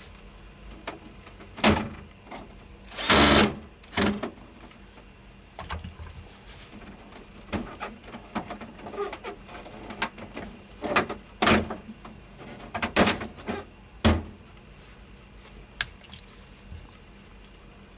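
Irregular knocks and clicks of hands and tools working on an appliance, with a short rushing noise about three seconds in and a cluster of louder knocks near the end, over a faint steady hum.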